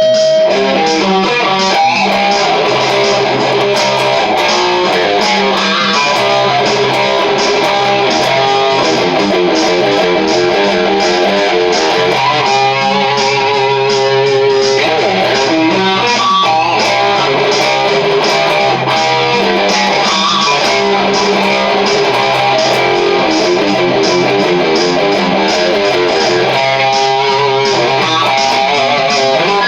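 Charvel DK24 HSS electric guitar soloing with fast runs and trills over a looping bass line and drum beat from a DigiTech Trio backing pedal.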